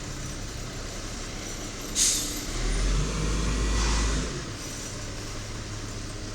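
1993 WhiteGMC diesel garbage truck running, with a sharp hiss of air about two seconds in. The engine then revs up and back down over about two seconds before settling to a steady idle again.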